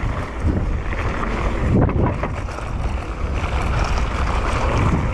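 Wind buffeting the microphone of a downhill mountain biker riding at speed. The bike rattles and knocks a few times over rough trail.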